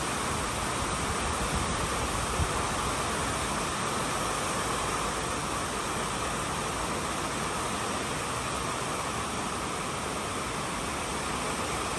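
Heavy typhoon rain pouring steadily, a continuous even hiss.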